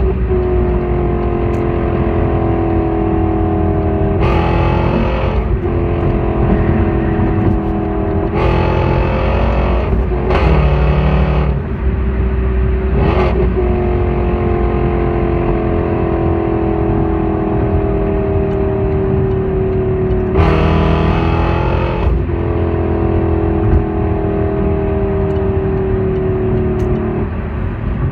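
Car exhaust droning at a steady engine speed, its pitch slowly sagging for several seconds at a time, broken about five times by brief louder, rougher surges.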